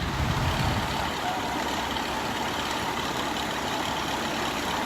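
Steady freeway traffic noise of vehicle engines running, with a heavier low rumble in the first second.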